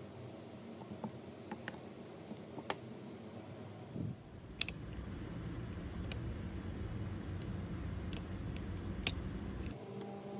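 Scattered small clicks and taps of repair tools on the parts of an opened iPhone 12. A low hum starts about four seconds in and stops shortly before the end.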